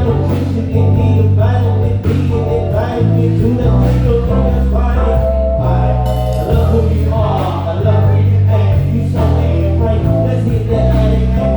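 Live band playing soul-gospel style music. A loud bass line changes note every second or so under steady drums, with keys and a lead melody above.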